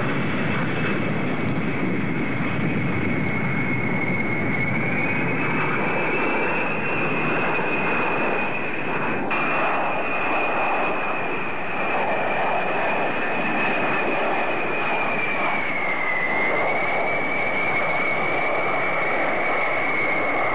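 B-52 bomber's jet engines whining and rushing as it flies, the high whine drifting up and down slightly in pitch.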